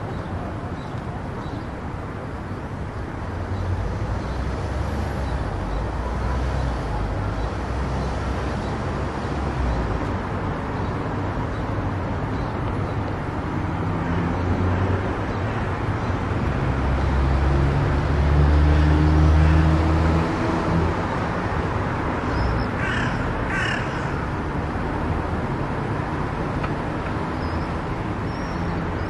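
A car cruising on an expressway: a steady rumble of tyres and engine that swells for a few seconds past the middle. Two short, harsh calls sound about two-thirds of the way through.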